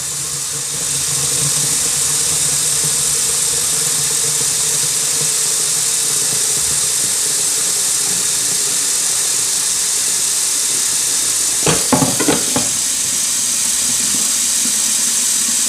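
Hot tap water running steadily from a faucet into the plastic clean-water tank of a Hoover Dual Power Max carpet cleaner as it fills, a steady hiss with a faint hum in the first half.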